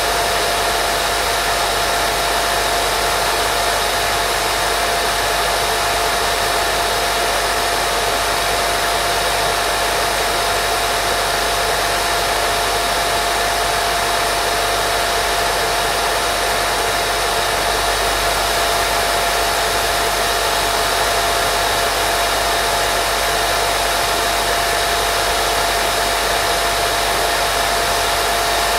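Steady white noise for baby sleep: an even, unchanging hiss with a single steady tone running through it.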